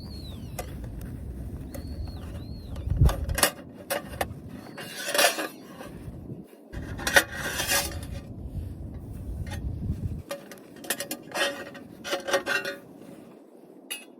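Metal camping gear being handled, a series of clinks and clanks, some ringing briefly, with birds chirping faintly in the first couple of seconds.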